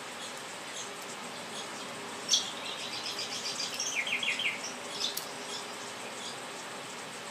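A bird twittering: a quick run of high chirps for about two seconds, starting a little after two seconds in and dropping lower near its end. Around it are faint, scattered clicks of laughing doves pecking seed from a glazed bowl.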